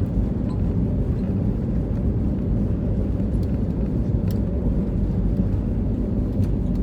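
Steady low rumble inside the passenger cabin of an Airbus A320neo on the ground after landing, from its engines and wheels as it taxis, with a few faint clicks.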